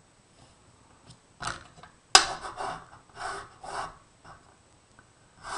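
Paper card pieces being handled while gluing: a sharp click about two seconds in, followed by several short rustling, rubbing strokes, and another burst of rustling near the end.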